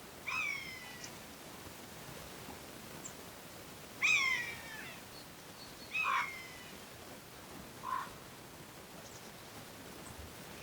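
A bird giving four short calls that fall in pitch, about two seconds apart, over faint background hiss.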